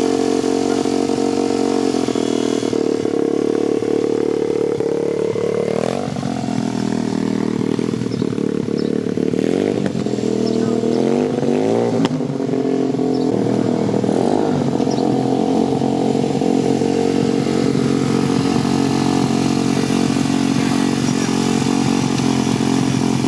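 Dirt bike engine running at a steady idle, its pitch rising and falling with several throttle blips from about six seconds in to about fifteen seconds, then settling back to a steady run.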